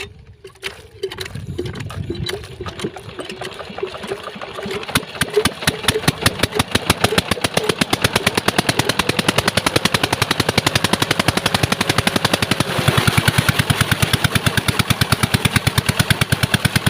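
Water-pump diesel engine starting: a few uneven firing strokes catch about a second in, then the exhaust beats quicken and grow louder into a fast, steady chugging from about five seconds in.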